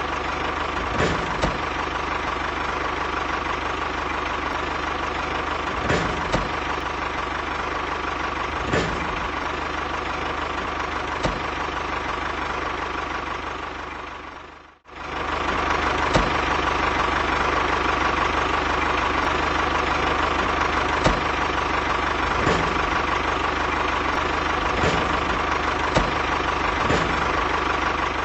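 A mini tractor's small engine running steadily, with scattered sharp clicks. The engine sound stops abruptly about halfway through and picks up again a moment later.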